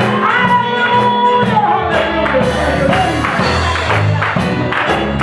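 Live gospel church music: bass, voices and percussion strokes keeping a steady beat of about three a second.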